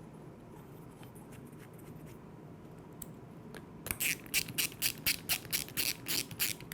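A ratchet wrench clicking as it tightens the screw that holds the float bowl on a lawnmower carburetor. Quiet at first, then about four seconds in comes a quick run of sharp clicks, about five a second.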